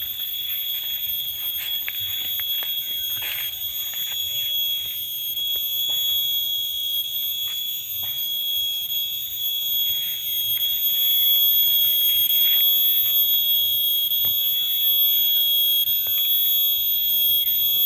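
A steady, high-pitched ringing whine, a 'nging', held at one pitch with overtones above it and growing louder about ten seconds in, with faint scattered clicks and rustles beneath.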